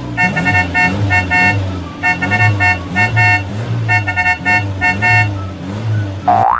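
Cartoon car horns beeping over and over in quick groups of short toots, over a low, pulsing engine rumble. A rising tone starts just before the end.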